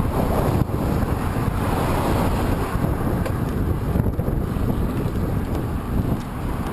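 Strong headwind buffeting the microphone of a camera on a moving bicycle: a loud, steady, gusting rumble.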